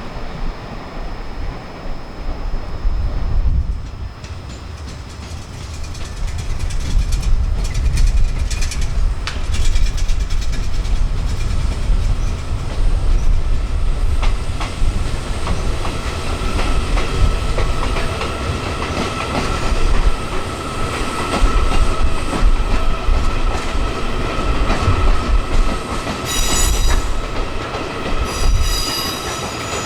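Train running on rails with a steady low rumble and wheels clicking over rail joints. A steady high whine comes in about halfway, and high-pitched wheel squeal sets in near the end.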